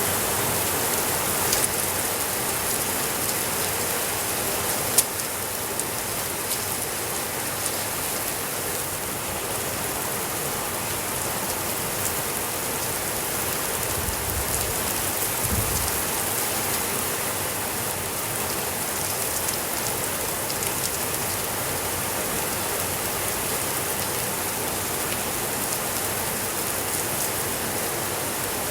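Steady rainfall, an even hiss of drops on surfaces, with a few sharp clicks and a brief low rumble about halfway through.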